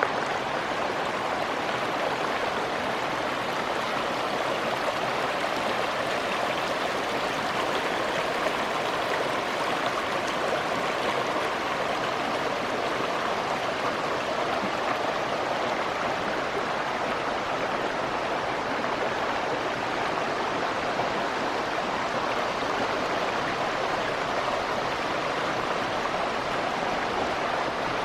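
A small stream's water rushing steadily.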